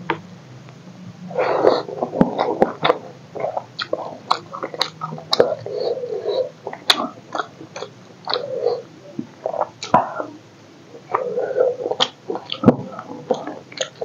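Chewing a mouthful of rice and chicken curry eaten by hand, with many irregular wet mouth clicks and smacks.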